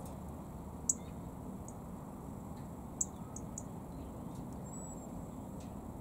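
A few brief high-pitched bird chirps, the two loudest about a second in and at three seconds, with a short thin whistled note near five seconds, over a steady low background rumble.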